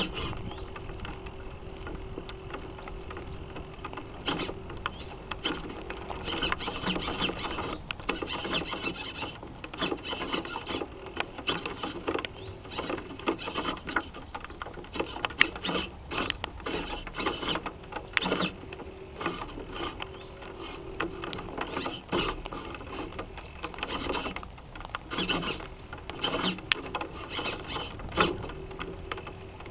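Servos aboard a North Wind 360 radio-controlled sailboat whirring and clicking through their gears, picked up close by the boat's onboard camera, with irregular sharp knocks. A hum comes and goes several times.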